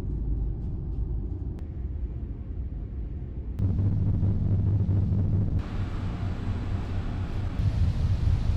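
Low, steady engine rumble that jumps louder abruptly about three and a half seconds in and changes again about two seconds later.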